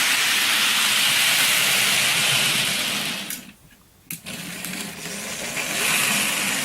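Small electric motor and gears of a Bachmann model train locomotive whirring steadily as it runs along the track. The whir drops out for under a second just past the middle and comes back with a click.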